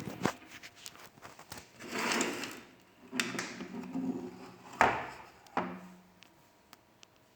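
Hands working on a microwave oven's parts and tools: a string of clicks and knocks, a scrape about two seconds in and a rattle after it, with the sharpest knock near the five-second mark. It goes quiet for the last second or so.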